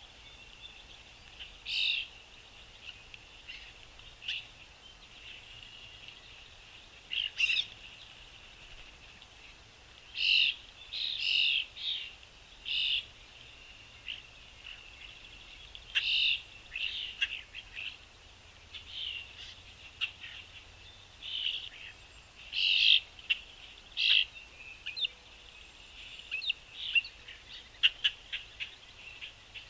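Small songbirds chirping in short, scattered calls, some in quick runs of several notes, over a faint steady high-pitched background.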